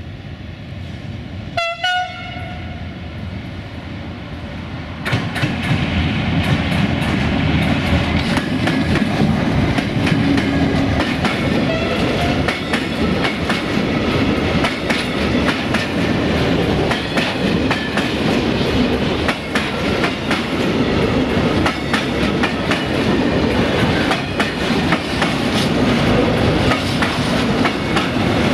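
An electric freight locomotive gives a short horn blast about two seconds in as it approaches, then runs past about five seconds in, followed by a long train of tank wagons rolling by close at speed: a steady rumble with rapid clicking of wheels over rail joints.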